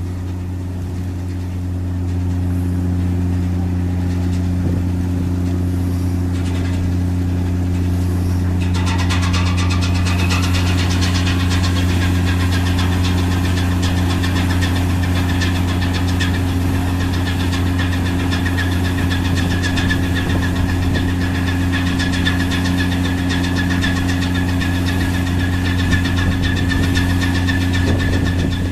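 The diesel engine of the cargo-passenger ship Yuri Maru running with a steady low drone. About nine seconds in, a higher whine and hiss joins it and keeps on.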